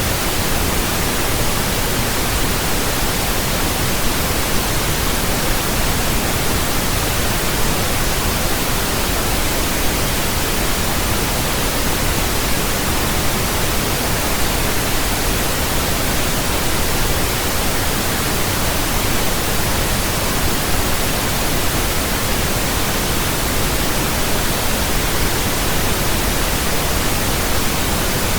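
Steady pink noise: an even, unchanging hiss with a soft rumble underneath.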